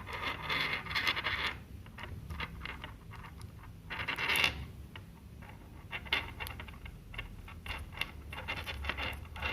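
Earphone packaging being opened by hand: scraping, rustling and small clicks in several irregular bursts.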